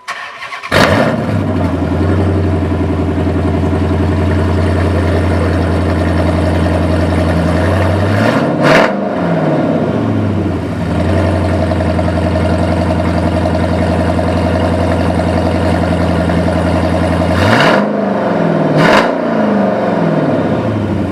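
Dodge Challenger SRT-8's HEMI V8 through an aftermarket Mopar exhaust, starting with a loud flare under a second in and settling into a steady idle. Around the middle it is blipped once, and near the end twice in quick succession, each rev rising and falling back with a sharp pop.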